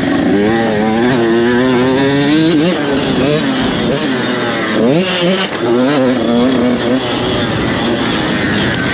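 Motocross dirt bike engines revving hard, the pitch climbing and dropping again and again as the throttle opens and closes.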